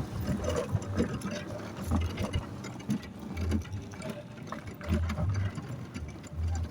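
An engine idling, its low note swelling and fading every second or two, with scattered light clicks.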